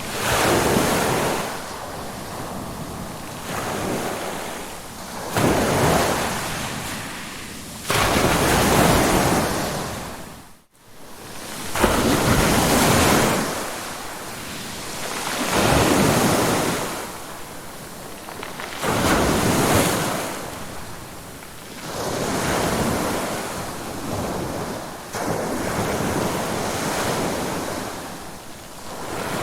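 Ocean waves breaking and washing on the shore, surging and fading about every three seconds. The sound briefly cuts out about eleven seconds in, then the surf resumes.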